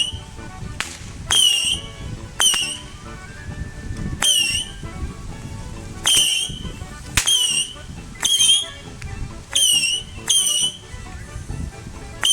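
A whistling multi-shot firework going off: about ten shots, roughly one a second, each a sharp crack followed by a short high whistle that bends in pitch.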